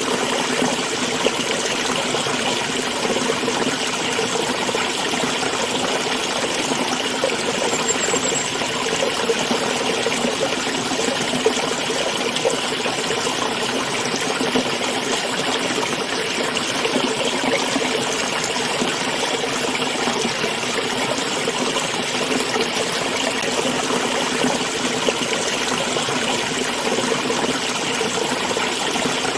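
A small stream flowing and trickling steadily, an even, unbroken rush of water.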